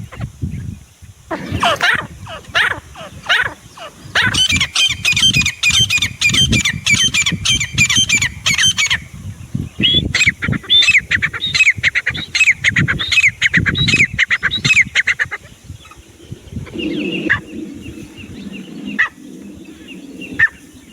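Grey francolin calling: a few loud separate notes, then two long runs of rapidly repeated shrill notes, each lasting about five seconds, after which only a few weaker notes remain.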